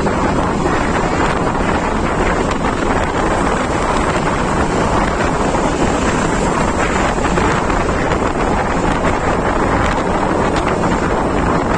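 Loud, steady wind noise buffeting the microphone while travelling.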